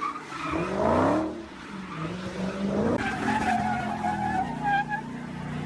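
Car engine revving, rising in pitch in the first second, followed by a wavering high-pitched tyre squeal from about three seconds in.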